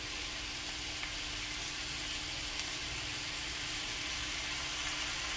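Beef tripe and offal sizzling steadily in a hot stainless steel pan with fish sauce, dry-sautéing before any water is added.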